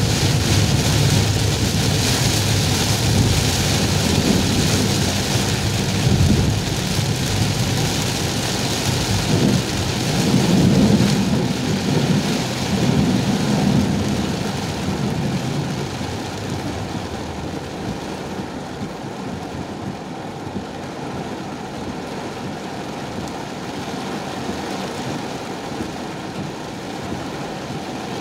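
Very heavy rain drumming on a car's roof and windshield, heard from inside the cabin, with a low rumble. The rumble is strongest in the first half, peaks about eleven seconds in, and eases off after about fifteen seconds as the rain noise quietens.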